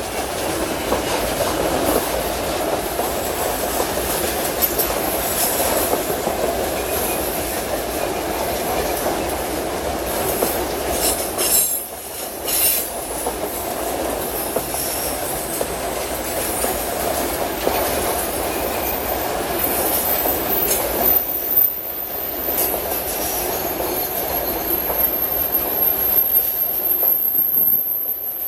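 Train wagons rolling past, a steady rumble of wheels on rail with clickety-clack over the joints. A high, steady wheel squeal comes in during the second half.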